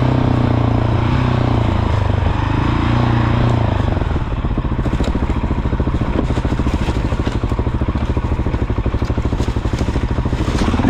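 Motorcycle engine running under way on a dirt trail, steady for the first few seconds. About four seconds in, the revs drop to a low, rapid, even pulsing beat.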